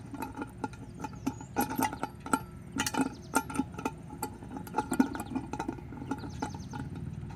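Irregular clinks and knocks of metal distiller pot parts being handled and screwed together, some strikes leaving a brief metallic ring.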